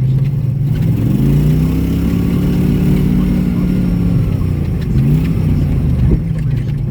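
Engine of an off-road vehicle driving along a trail, heard from on board: it speeds up about a second in, holds, eases off around four seconds in, then picks up again.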